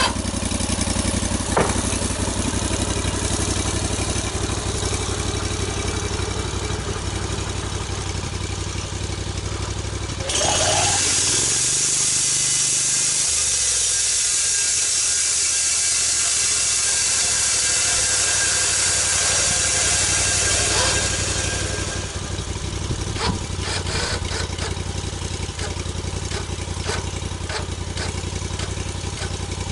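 Log-milling sawmill engine running steadily. From about ten seconds in a loud hiss joins it for roughly ten seconds while the engine pitch dips under load, as the blade works through a log. Scattered clicks and knocks follow near the end.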